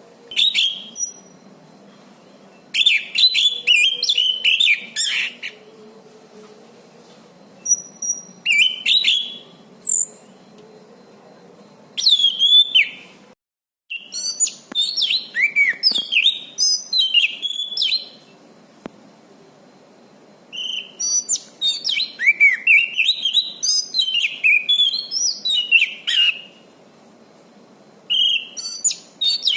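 Anis cendana thrush singing in bursts of rapid, varied whistled phrases, one to several seconds long, with short pauses between them. The sound briefly drops out completely about halfway through.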